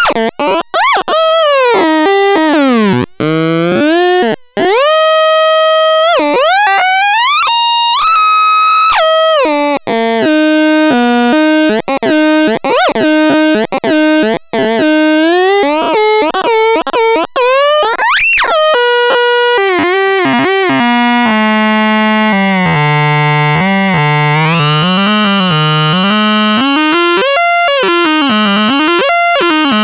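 Electronic synthesizer tones from the Multiton being demonstrated. Pitches glide and wobble, then step quickly from note to note, with one sweeping rise about two-thirds of the way in. After that the tones are held longer over a slowly wavering low note.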